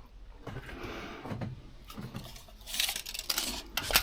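Handling noise from working the insulation material: soft rustling, a hissy scraping rasp a little after the halfway point, and a sharp click near the end.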